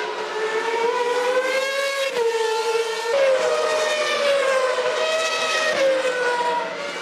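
1998 Formula One car's V10 engine at high revs. Its pitch climbs, breaks sharply about two seconds in as a gear changes, then slides down through the second half before falling away near the end.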